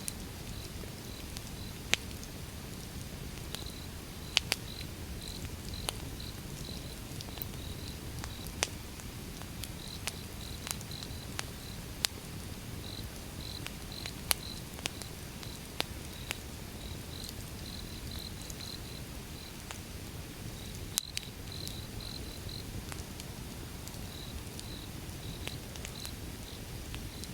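Wood fire burning with a low steady rumble and sharp, irregular crackles and pops from the burning logs. Behind it, insects chirp in short repeated pulses, like crickets.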